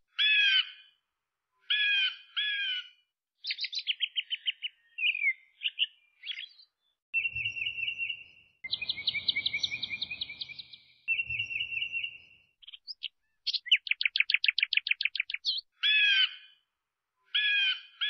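A songbird singing in separate phrases: quick chirps, fast rattling trills and two held whistled notes, with short silent gaps between phrases.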